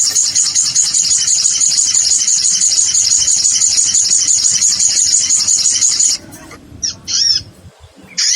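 Lure recording of a sogon (kolibri), a small sunbird-type bird, calling: a loud, fast, high-pitched trill that stops about six seconds in, followed by a few separate sharp, bending call notes, and the trill starting again at the very end.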